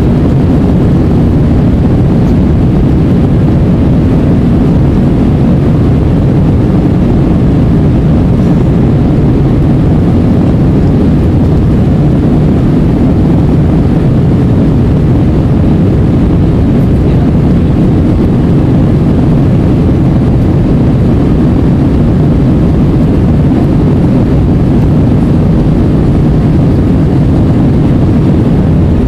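Airbus A320 jet airliner in flight: a steady, loud low rumble that does not change.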